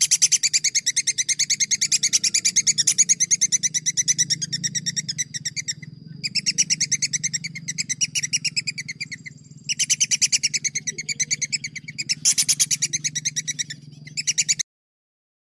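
Songbird singing long, rapid rolls of sharp repeated notes, about eight a second, in several runs with short breaks, cutting off abruptly near the end. It is a masteran tutor recording of competition-bird song.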